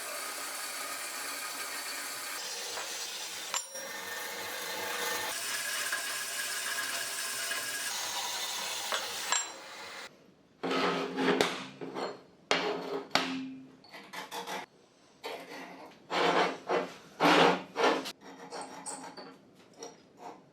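Workshop tool work. First a steady, even rasping runs for about nine seconds, then it gives way to a string of separate scraping strokes, each under a second long, with short pauses between.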